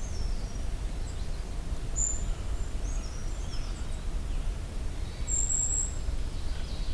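Golden-crowned kinglets giving very high, thin call notes, a few short ones scattered through, over a steady low rumble.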